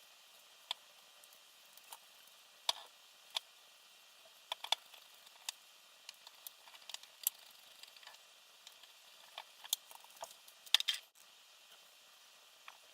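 Irregular light clicks and taps of small parts and tools being handled while a quadcopter frame is assembled, a dozen or more scattered through, with the loudest cluster near the end.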